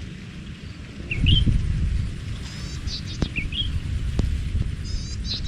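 Birds calling: a short rising call repeated twice, with higher quick trills between, over a steady low rumble of wind on the microphone.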